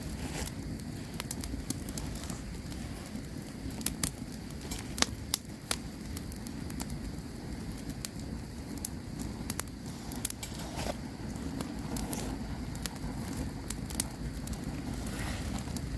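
Campfire burning, with irregular sharp crackles and pops from the wood over a steady low rush of flames.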